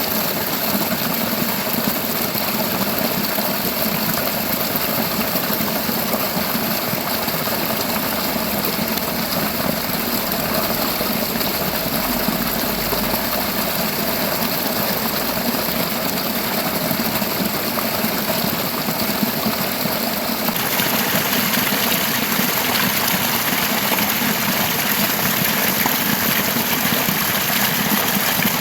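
Steady rushing of a fast, clear river flowing over rocks, with an abrupt shift in its tone about twenty seconds in.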